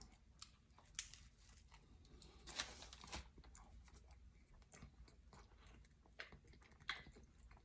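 Faint chewing of food close to the microphone, with a few louder wet clicks and crunches now and then.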